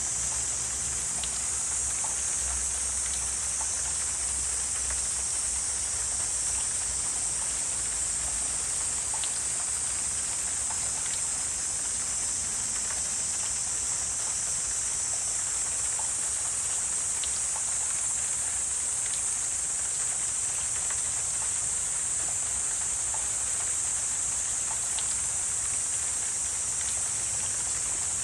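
Wetland ambience: a steady high-pitched chorus of creatures, most likely insects, with scattered faint ticks through it.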